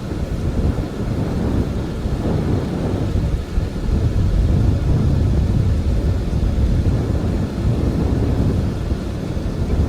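Strong blizzard wind gusting, a low rumbling noise from the wind buffeting the microphone that swells and eases without a break.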